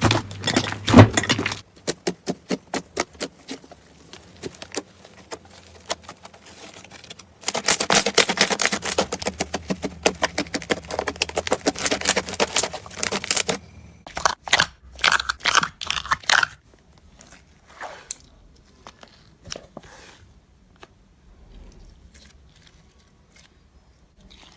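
Slime being worked by hand, giving off rapid crackling clicks and pops. The crackling is densest and loudest in the middle, breaks into a few louder pops, then thins to faint scattered clicks near the end.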